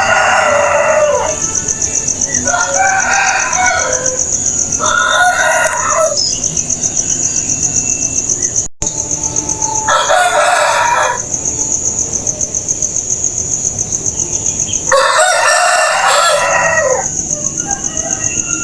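Roosters crowing, five separate crows of one to two seconds each. A steady, high, pulsing trill runs under them the whole time.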